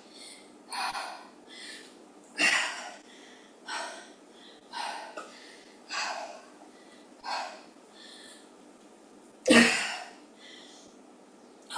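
A woman breathing hard from exertion during weighted deep squats: a string of short, sharp breaths, roughly one a second, the loudest a little before the end.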